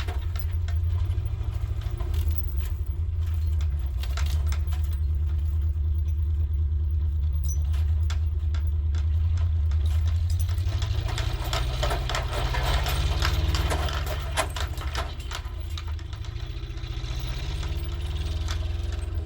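1967 International 1200 pickup's engine running under load, its revs rising twice in the second half, with a steady run of metallic clinking and rattling over it, fitting the tire chains on its wheels.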